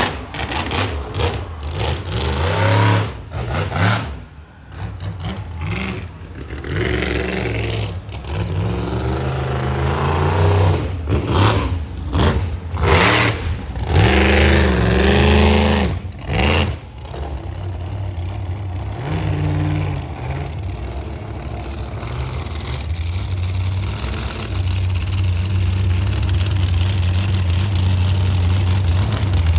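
Monster truck engine revving in repeated bursts for the first half, then running at a steadier low idle that slowly grows louder toward the end.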